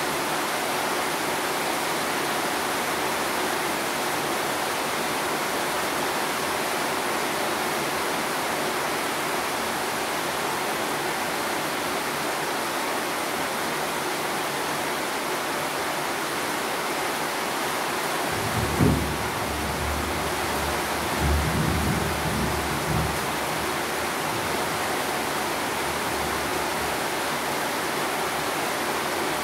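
Steady rain, a constant even hiss. About two-thirds of the way through come a few low thumps and rumbles, the first of them the loudest.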